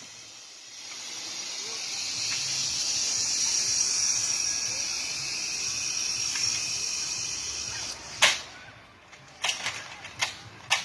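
Zipline trolley pulleys running along the steel cable: a high hissing whir that builds as the rider comes closer and then fades. About eight seconds in comes a sharp knock, followed by a few smaller clicks near the end.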